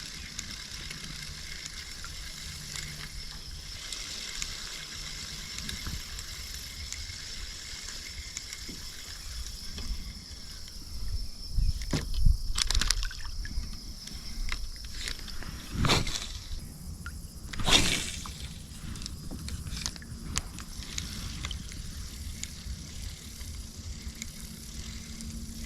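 Water sloshing and lapping around a kayak, with a few louder splashes or knocks in the middle stretch, roughly a dozen seconds in, again around sixteen and eighteen seconds.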